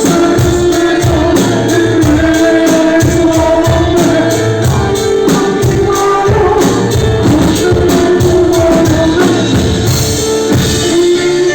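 A band playing a song live: held melodic notes and singing over a bass line and a steady beat, with a tambourine-like jingle on the beats.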